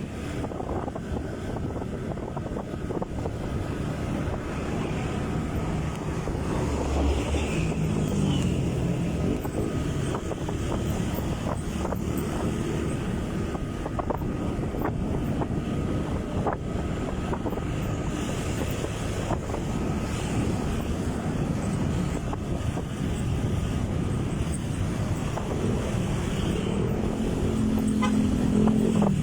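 Motorcycle engine running while riding, with wind buffeting the microphone; the engine pitch rises near the end.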